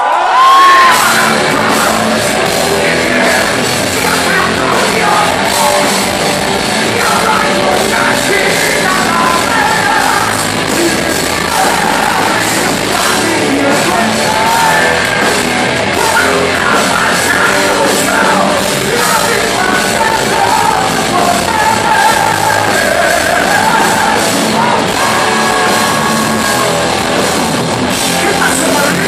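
Live heavy metal band playing loud, with a male rock singer's voice over electric guitars and drums. The band comes in with a hit right at the start.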